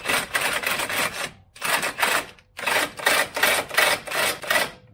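Hand ratchet wrench clicking in quick back-and-forth strokes, about two a second, as a suspension bolt is run down snug before torquing.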